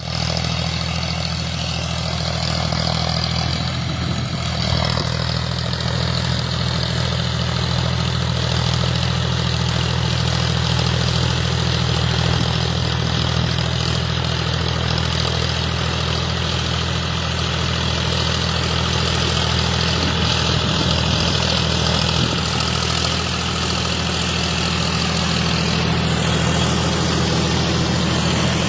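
John Deere 5045D tractor's three-cylinder diesel engine running at a steady speed, a constant low drone with a rushing mechanical noise above it.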